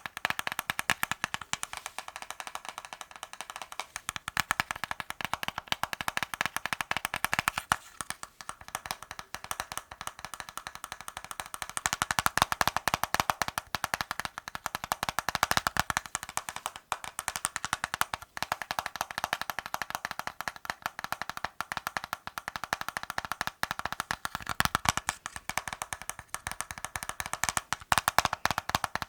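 Fast, continuous tapping on assorted hard objects: a dense run of many small taps a second, sharp and clicky, with brief let-ups now and then.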